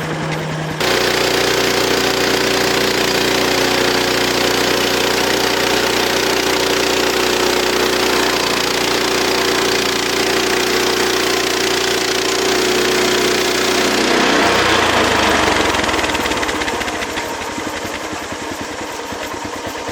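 Sawmill engine throttled up from idle about a second in and running steadily at high speed. From about 14 seconds on it falls in pitch and level as it is throttled back down.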